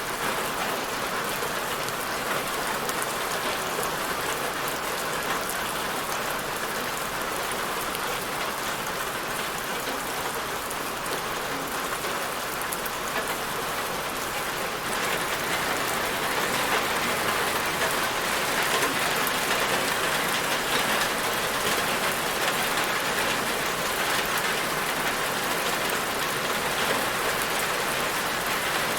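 Steady rain falling on a surface, a dense even patter of drops that grows a little louder about halfway through.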